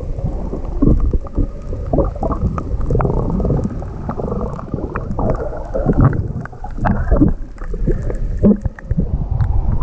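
Rough sea waves sloshing and splashing around someone in the water, muffled and irregular with many short splashes.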